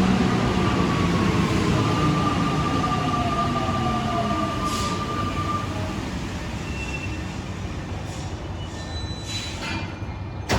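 Alstom metro train running through the station and moving away, its sound fading steadily, with a falling motor whine early on and a steady high whine for a few seconds in the middle.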